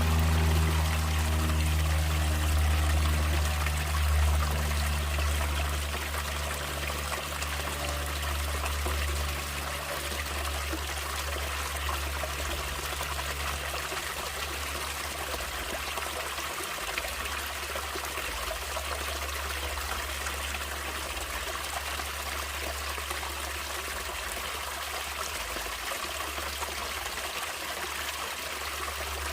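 Water trickling and flowing steadily, as a stream, with a steady hiss throughout. Low musical tones fade out over the first few seconds.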